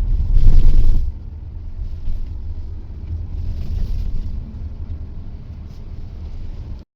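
Waterfall rushing: a deep, rumbling noise, loudest in the first second, then steady.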